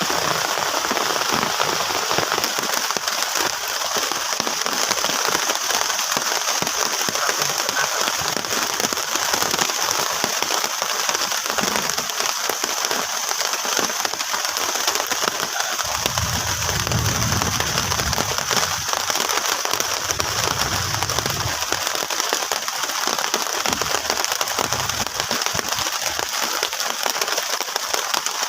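Heavy rain falling steadily on a plastic sheet shelter, a dense, even hiss. A low rumble comes in a little past the middle and lasts about five seconds.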